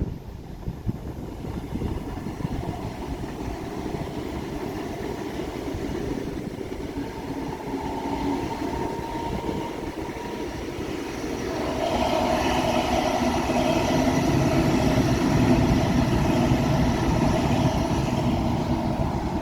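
A train running on the tracks, a continuous rumble that grows louder about twelve seconds in, with steady tones sounding over it.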